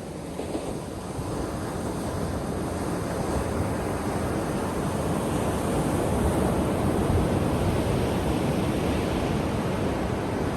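Ocean surf: waves breaking and washing onto a beach in a continuous rush that builds up over the first several seconds.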